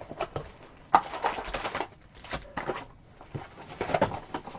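Card boxes and their packaging being handled and opened: irregular crinkling, clicks and taps of cardboard and plastic wrap, in bursts.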